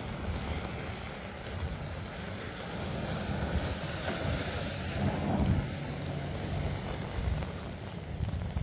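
Steady rain falling on an umbrella over a low rumble of traffic on a wet avenue. A car passes with tyre hiss on the wet road, loudest about five seconds in.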